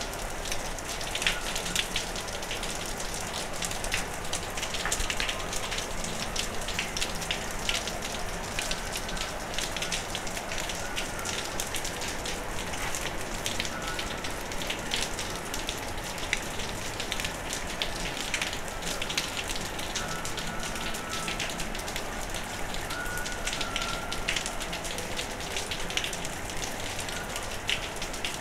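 Steady rain falling during a thunderstorm, with many close drops ticking sharply on nearby surfaces.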